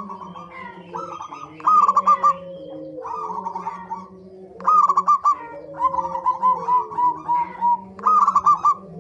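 Zebra doves (perkutut) cooing, several calling over one another: short bursts of three or four quick ringing notes repeat every second or two over lower drawn-out coos, and about two-thirds of the way in one bird gives a longer run of evenly spaced notes.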